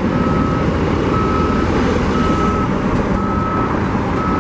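Construction vehicle's reversing alarm beeping steadily, about once a second, over the continuous low rumble of heavy truck engines working.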